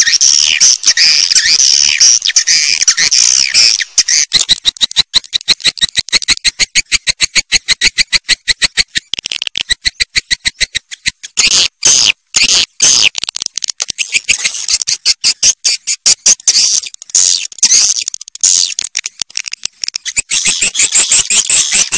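Swiftlets calling: high twittering chirps, then about four seconds in a long run of rapid, evenly spaced clicking calls, with the twittering coming back near the end.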